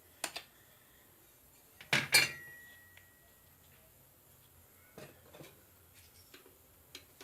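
Metal parts of a mixer grinder motor clinking and knocking as it is taken apart to remove the rotor. There is a click, then two loud metallic knocks about two seconds in with a brief ringing after them, then a few light clicks.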